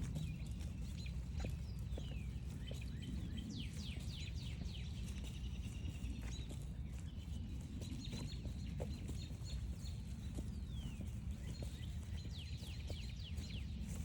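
Songbirds calling in the woods: many short, falling chirps overlapping throughout, with a steady low rumble underneath.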